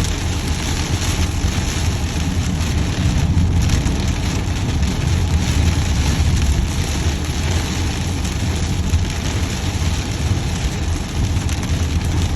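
Heavy rain beating on a moving car, with the steady low rumble of the road and engine heard from inside the cabin.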